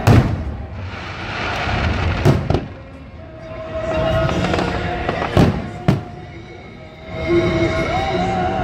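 Aerial fireworks shells bursting overhead: a loud boom right at the start, then two pairs of sharp booms a few seconds apart.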